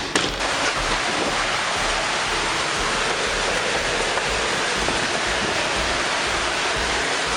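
Steady rushing noise of a severe storm, wind and heavy rain together, with a sharp click just after the start.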